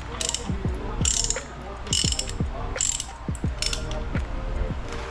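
Hand ratchet wrench clicking in about five short bursts roughly a second apart, as a bolt is worked loose with back-and-forth strokes of the handle.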